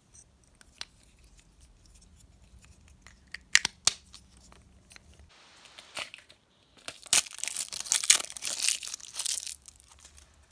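Candy wrapper being handled with a few sharp clicks, then torn open and crinkled loudly for about three seconds near the end.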